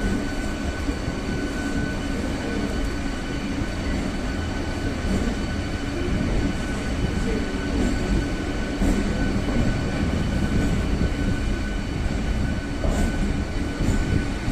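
MEMU electric multiple-unit train running: a steady low rumble with a thin steady high tone over it, growing slightly louder about halfway through.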